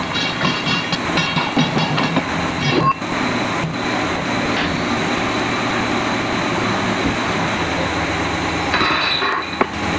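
Heavy diesel machinery running steadily, with high metallic squealing tones through the first three seconds and again briefly near the end.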